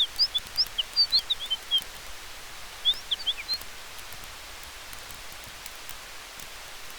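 Steady hiss of wind through trees and a campfire, with faint crackling ticks from the fire. Over it, two quick flurries of short high chirps, like a small bird twittering: about a dozen notes at the start and a shorter run about three seconds in.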